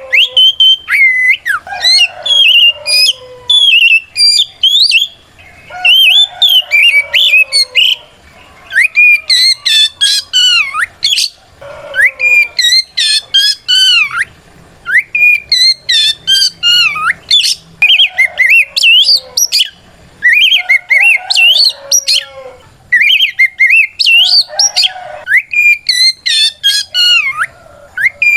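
Oriental magpie-robin (kacer) singing loudly in full 'ngeplong' song: rapid phrases of rising and falling whistles and chattering notes with short pauses between them. It is a challenge song calling out a rival.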